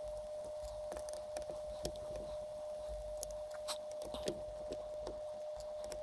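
Light scattered clicks and taps of small parts and tape being handled at a workbench, over a steady high-pitched hum.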